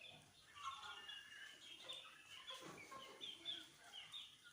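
A flock of desi chickens, young birds among them, calling faintly: many short high chirps and peeps overlapping, with the odd cluck.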